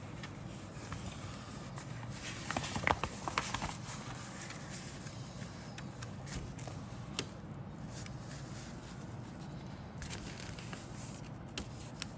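Handling noises from a plastic model kit's box and parts: rustling with scattered clicks, busiest about three seconds in, over a low steady hum.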